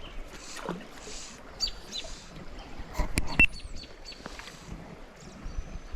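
Small birds chirping over the steady rush of a small stream, with a few sharp knocks about three seconds in.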